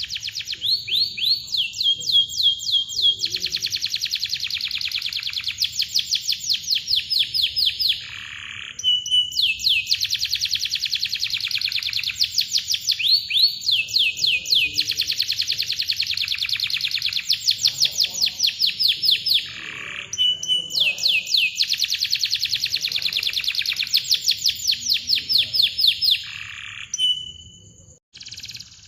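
Domestic canary singing long, tightly packed rolls of rapid repeated high chirps, each roll lasting several seconds, with a few brief breaks between them.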